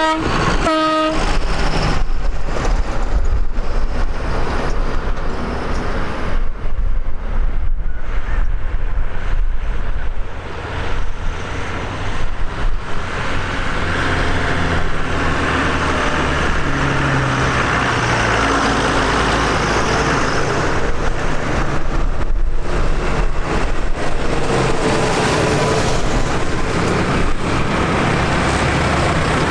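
Tractor engines running steadily, with two short horn toots about a second apart right at the start.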